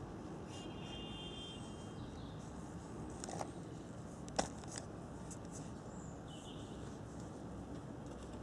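Steady low background noise with a brief high chirp near the start and two sharp clicks, about three and four seconds in, the second the louder.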